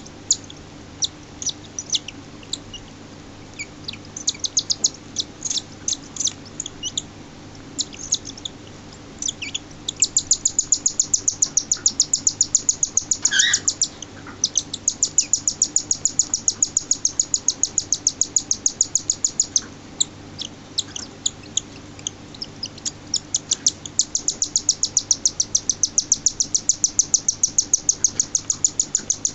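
Six-day-old cockatiel chick begging for food while a parent feeds it: high, thin chirps, scattered at first, then long fast runs of several a second. There is one lower rising call about halfway through.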